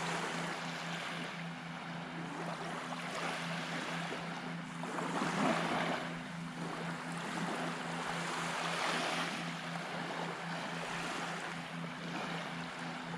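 Small waves washing onto the beach, the rush swelling and falling back every few seconds, over a steady low hum.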